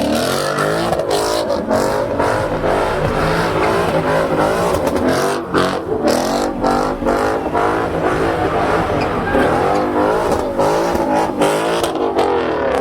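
Car engine revving hard and rising and falling over and over, as in a slide or burnout, with short sharp cracks scattered throughout.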